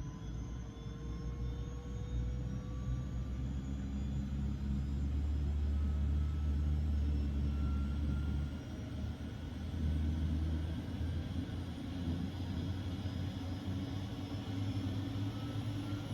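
Bell 206L-4 LongRanger's Rolls-Royce 250 turboshaft engine running during start-up, its turbine whine slowly rising in pitch over a heavy low rumble.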